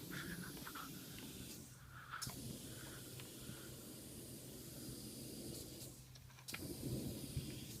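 Steady rushing hiss of air with a low motor hum underneath, from dryer-vent cleaning equipment working air and lint through a plugged dryer vent. The sound drops out briefly twice.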